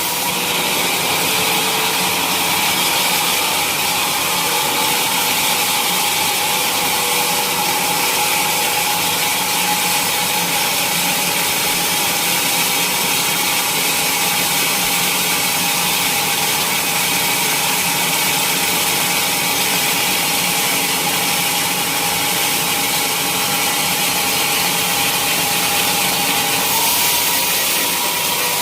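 Sawmill saw running steadily through a teak log, with a whine that sinks slowly in pitch over the cut and rises back near the end.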